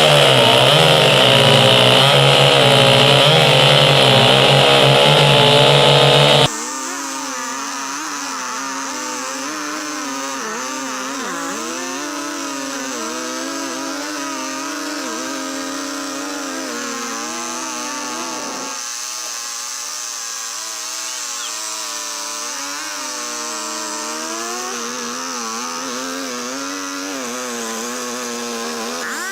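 Stihl two-stroke chainsaws running at full throttle, cutting through a log. About six seconds in, the sound drops suddenly to a much quieter level. From then on the saw engine is heard more faintly, its pitch wavering up and down as it bogs and clears in the cut.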